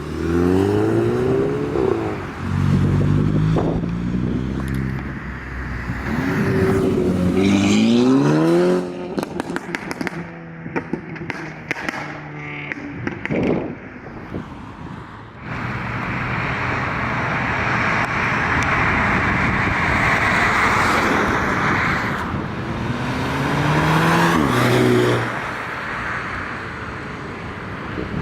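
Volkswagen-group performance cars accelerating hard, their engine pitch rising and dropping back at each upshift, several times over. There is a long stretch of steady, loud noise in the middle.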